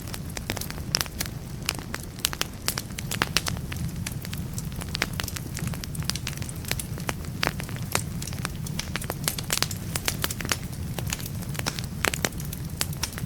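Wood fire burning in a fireplace, crackling with frequent irregular sharp pops over a steady low rush of flame.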